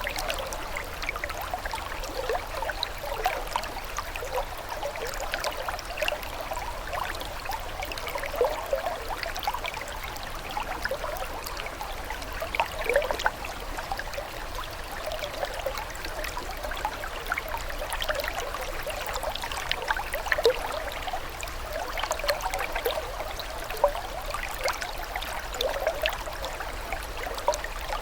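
Running water trickling and gurgling steadily, with many small bubbling splashes and no pauses.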